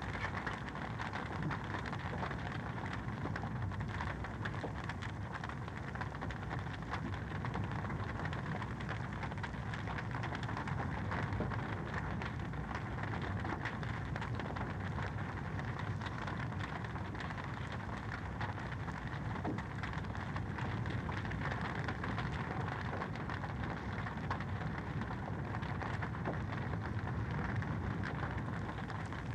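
Wood fire crackling in a fireplace: a steady hiss scattered with many small, quick crackles and pops.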